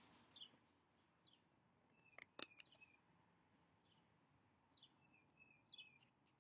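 Near silence outdoors, with faint, short, high bird chirps every second or so, each sliding downward. There is a soft click about two and a half seconds in.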